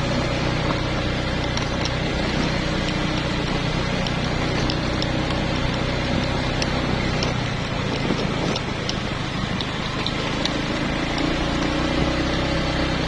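Motor vehicle engine running steadily, as if while driving, with a few faint scattered clicks.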